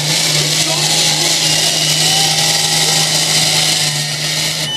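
A pulling truck's engine running flat out at a steady pitch under load, with a loud hiss over it; it cuts off suddenly near the end.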